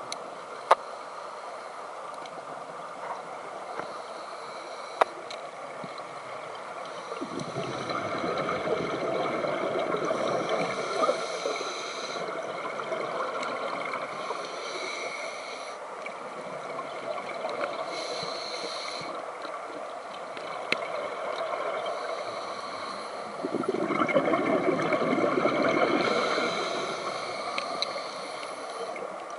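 Scuba diver breathing through a regulator, heard underwater: exhaled bubbles rush out in two long gurgling spells, with shorter hissing draws of air between them and a few sharp clicks.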